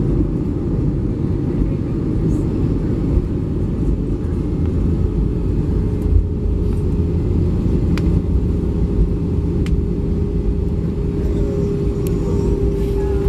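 Cabin noise inside an Airbus A320: a steady deep rumble, with a steady engine hum coming in about four seconds in and a few faint clicks.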